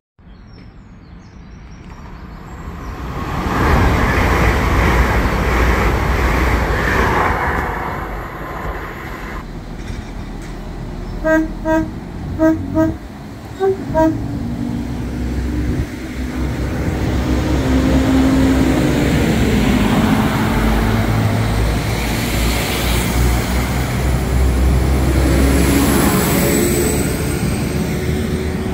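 Train horn giving a run of about six short toots on two pitches, between stretches of a passing train. First a noise that builds over a few seconds, then a steady rumble with engine tones that slowly fall in pitch as it goes by.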